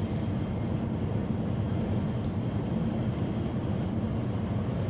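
Steady road noise and engine drone inside a semi truck's cab cruising at highway speed, a low, even rumble.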